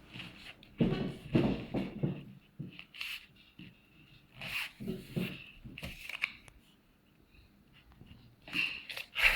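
A sheet of paper being folded in half by hand: irregular short rustles and crinkles, with the loudest one near the end.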